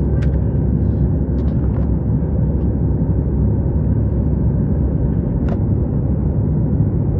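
Airplane cabin noise: a steady, loud rumble of engines and rushing air, with a few faint clicks.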